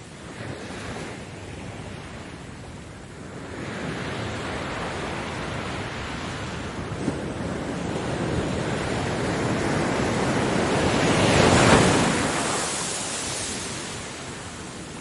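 Ocean waves breaking on a beach: the surf builds for several seconds to one loud crash a little before the end, then washes back and fades.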